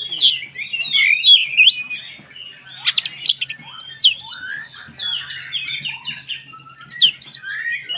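Oriental magpie-robin (kacer) in full song: a loud, varied run of sharp whistles, quick rising and falling slurs and rapid chattering notes, coming in dense bursts. There is a faint steady hum underneath.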